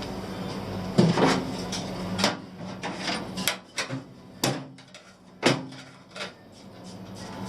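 A series of sharp knocks, one about every second, over a steady hum that fades away partway through.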